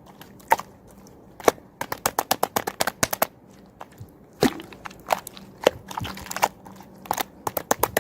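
Slime being pressed and poked by hand, giving a string of sharp pops and clicks, with a quick run of them about two seconds in and scattered single pops elsewhere.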